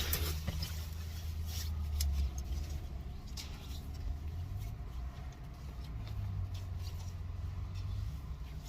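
A low, steady mechanical hum with scattered light clicks and knocks.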